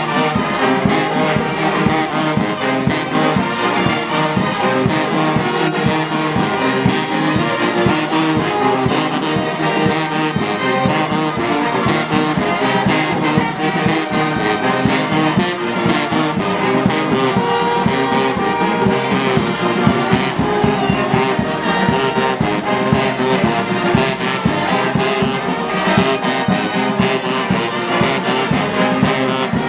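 Brass band playing marching music, with trombones and trumpets.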